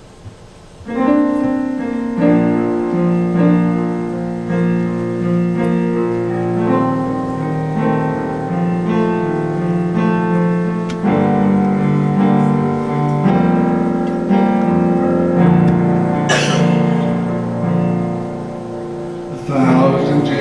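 Keyboard playing slow, held piano chords, starting about a second in: the instrumental introduction to the next worship song. A brief noise cuts across the chords near the end.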